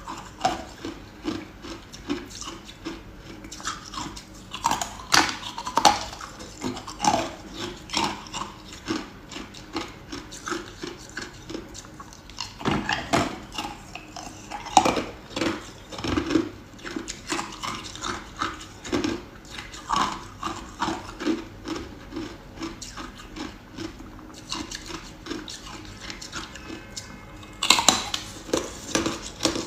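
Ice being bitten and chewed close to the microphone: an unbroken run of sharp, irregular crunches and cracks, about one or two a second.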